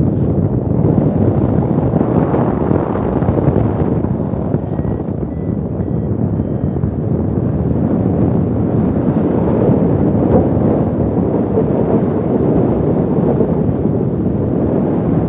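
Strong wind buffeting the microphone of a paraglider in flight, steady and heavy. About five seconds in, a short run of high beeps from the variometer cuts through.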